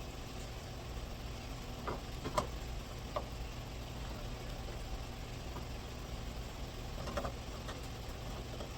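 A few light clicks and knocks of hand tools and parts while the radiator and fan are being taken apart, over a steady low hum.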